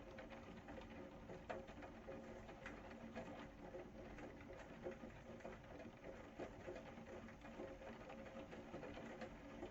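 Steady rain, faint, with many small drops pattering irregularly, over a faint low steady hum.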